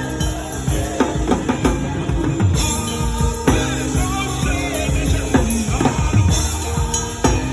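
Live worship band music led by a drum kit, with dense kick, snare and rimshot hits and fills over sustained bass and chord notes.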